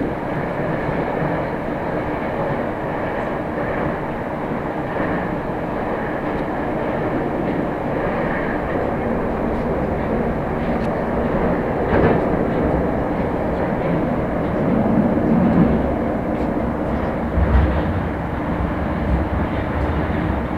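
Moscow Metro train running between stations: a steady rumble of wheels and motors, with a couple of sharper knocks from the track.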